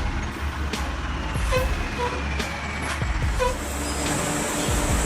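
Heavy truck engine running steadily, with a few short high squeaks.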